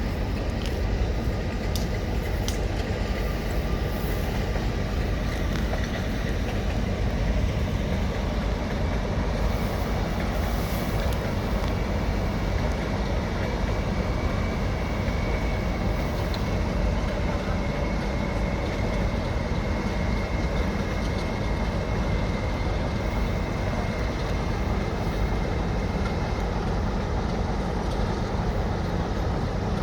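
A train running on the rails: a steady, unbroken rumble of rail and running noise, with a faint high tone holding through the middle.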